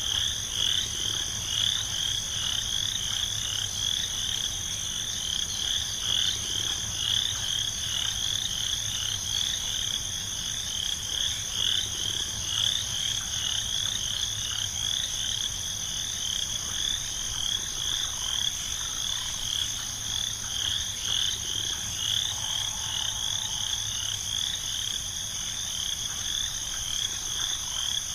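A frog chorus calling in short repeated notes, about two a second, over a steady high-pitched drone.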